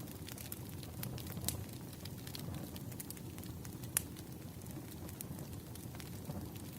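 Campfire burning: a steady low rumble of flames with scattered sharp crackles and pops from the burning wood, one louder pop about four seconds in.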